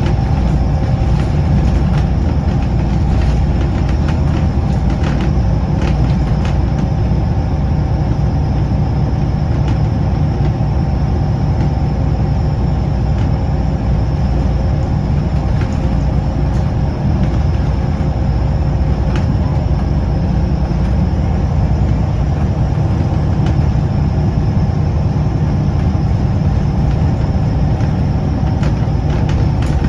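Scania L94UB bus driving along at a steady pace: a constant engine and road rumble, with occasional short clicks and rattles.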